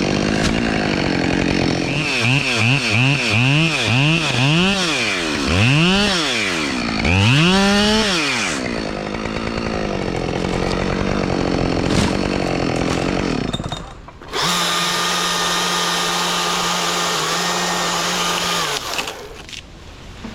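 Gas chainsaw revved in a run of quick throttle blips, its pitch rising and falling with each, then held running while cutting wood. After a sudden break about two-thirds through, a steady engine hum at constant pitch runs on and fades near the end.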